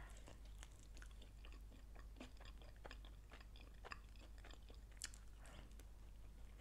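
Faint close-up chewing with scattered small clicks, a slightly sharper click about four seconds in and another about five seconds in.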